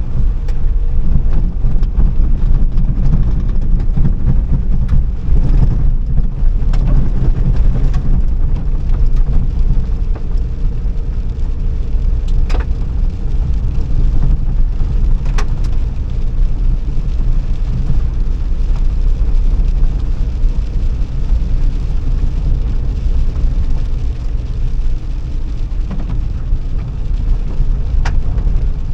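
Car on the move: a steady, loud low rumble of engine and road noise, with a few brief sharp clicks.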